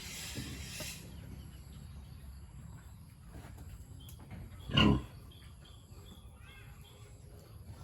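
A pig gives one short, loud grunt a little under five seconds in, over low background noise.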